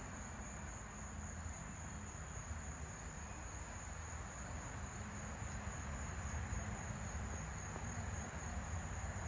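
Crickets or similar insects chirring in a steady, unbroken high-pitched drone, over a low background rumble.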